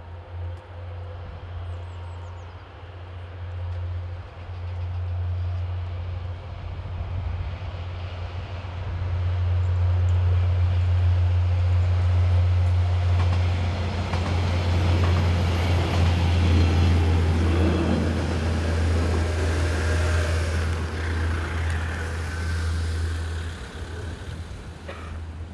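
Veolia regional train passing on the tracks at a level crossing: a steady low rumble that swells about nine seconds in, with wheel and rolling noise loudest in the middle stretch, easing off near the end.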